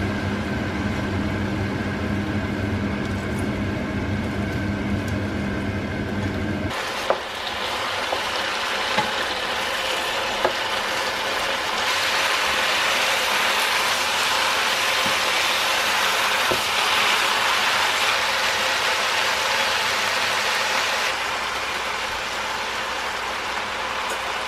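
Vegetables and curried chicken sizzling in a hot electric skillet as they are stirred with a spatula, with a few sharp knocks of the spatula on the pan. For the first several seconds a steady low hum lies over it; after that the frying hiss grows louder.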